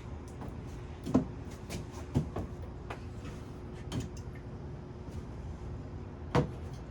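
Several separate knocks and thumps, the loudest about a second in and another near the end, over a steady low background hum.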